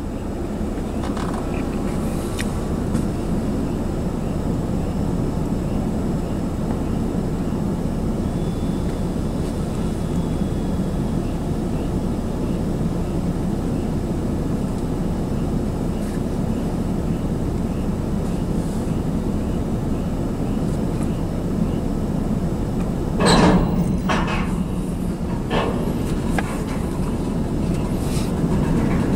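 A steady low rumble, then, about 23 seconds in, a cluster of sharp metallic clanks with a few more after it as the standing freight cars jerk into motion and start to roll.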